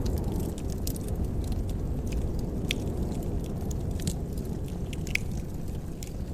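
Fireplace wood fire crackling: scattered sharp pops and ticks over a steady low rumble, with two louder snaps a little under three and about five seconds in.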